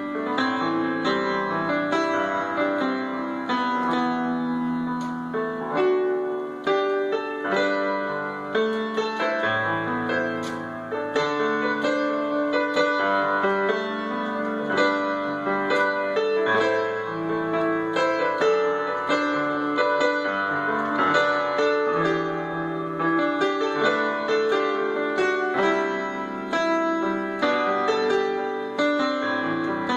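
Piano playing continuously: a steady run of struck notes over held lower tones, with no pause.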